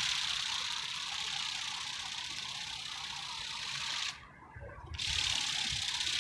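Remote-control flapping-wing toy bird in flight, its small geared wing mechanism giving a fast, steady whirr. The whirr cuts off suddenly about four seconds in, as the flapping is switched off for a glide, then starts again about a second later.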